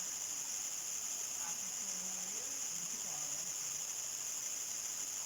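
Steady, unbroken high-pitched chorus of crickets at dusk, with faint distant voices under it.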